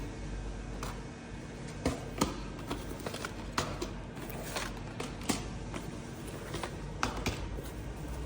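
Irregular light knocks and clicks, as of parts and tools being handled on a workbench, over a steady low hum.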